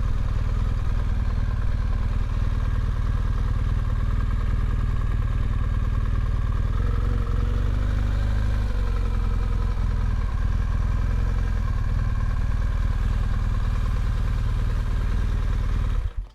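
BMW GS motorcycle engine running steadily at low revs, cutting off suddenly near the end.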